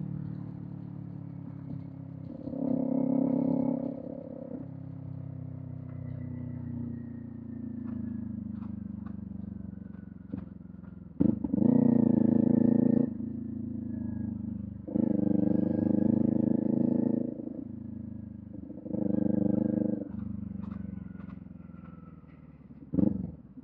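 Kawasaki Z400 parallel-twin motorcycle running through a Villain M1 aftermarket exhaust, with four short spells of louder throttle about 3, 12, 16 and 19 seconds in and the engine note sinking as it eases off between them.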